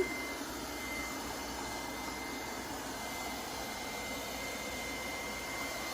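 Robot vacuum cleaner running: a steady whirring hiss with a thin, constant high whine over it.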